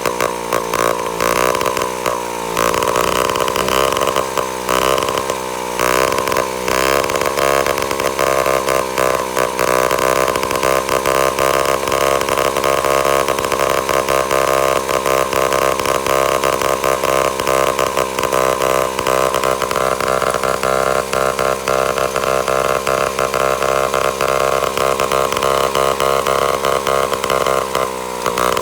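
1941 Japanese engine running on test with its gearbox. It rises and falls in speed several times over the first ten seconds, then runs at a steady fast pace, and speeds up and slows down again near the end.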